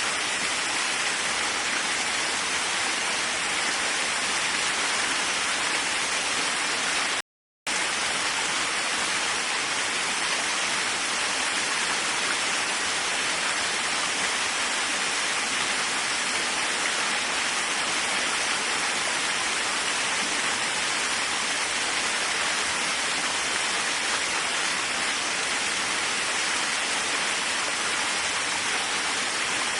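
Steady hiss of falling water from a waterfall, broken by a sudden half-second gap of silence about seven seconds in.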